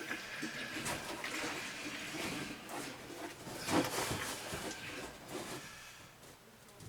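Used motor oil pouring through a funnel into a heating-oil tank, a run of liquid noise with a few knocks from handling the container, trailing off near the end.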